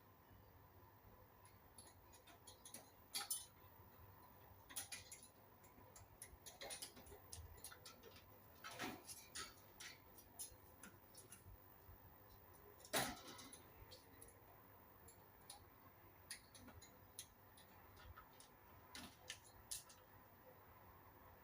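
Near silence with faint, scattered short clicks and ticks at uneven intervals, the loudest about thirteen seconds in.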